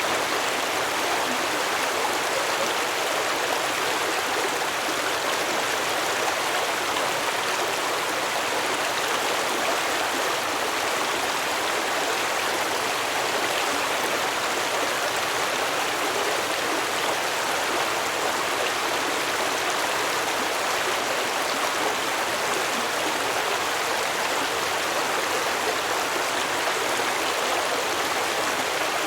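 Stream water flowing and babbling over rocks, a steady rushing without breaks.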